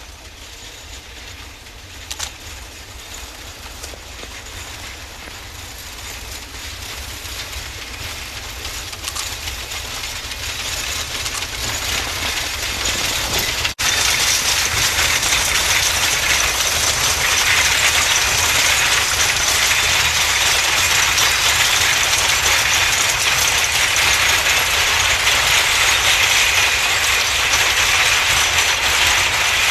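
Narrow-gauge coal train hauled by a C2 steam locomotive approaching, getting steadily louder, then running close by with a loud, steady rattle and clatter of wheels and wagons.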